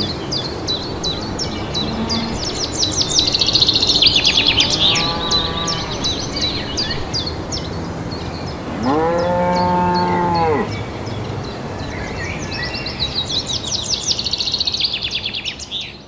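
Cows mooing: a fainter moo about five seconds in, then a louder, longer moo of about two seconds near the middle. Birds chirp rapidly in the background.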